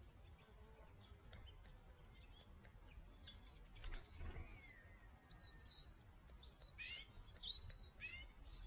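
Wild birds chirping: a quick run of short, high chirps and a few brief falling notes, starting about three seconds in and growing busier toward the end.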